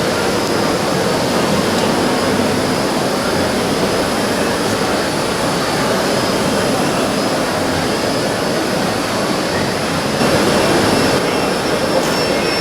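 Radio-controlled model construction machines running: a steady mechanical whirr with faint high-pitched whines, a little louder for a moment near the end.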